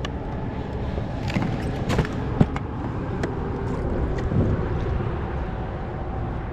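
Wind rumbling on the microphone, with a few sharp knocks and clicks, the loudest about two and a half seconds in.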